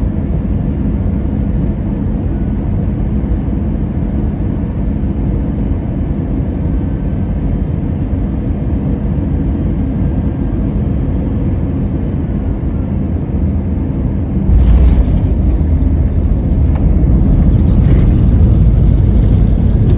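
Airliner cabin noise during landing: a steady low rumble on final approach, then about three quarters of the way through a sudden jump to a louder, rougher rumble with a few sharp knocks as the wheels touch down and the plane rolls out on the runway.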